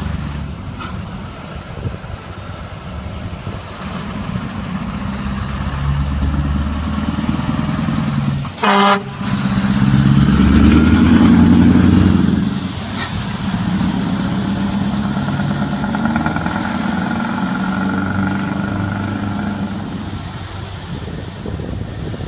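Scania R560's V8 diesel engine running, its pitch rising and falling as it is revved, loudest in a long rev about ten to twelve seconds in. A short, sharp horn-like blast comes just before that, about nine seconds in.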